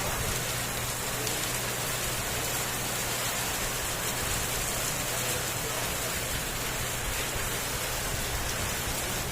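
Heavy rain pouring down, a steady, even hiss of rain hitting surfaces.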